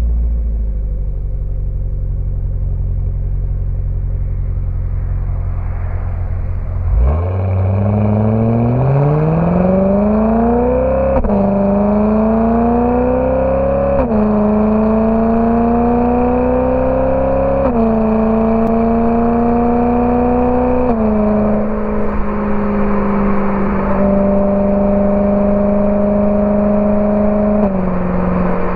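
BMW E92 M3's 4.0-litre V8 through a Borla ATAK exhaust: a low, steady rumble, then about seven seconds in it accelerates, its pitch climbing and dropping back at each upshift, four times over the next fourteen seconds. Over the last stretch it runs at a steadier pitch, with two small drops.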